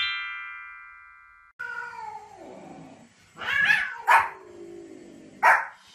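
A bright chime sound effect rings out and fades. Then a cat meows in drawn-out calls that fall in pitch, and a small dog gives a few sharp barks.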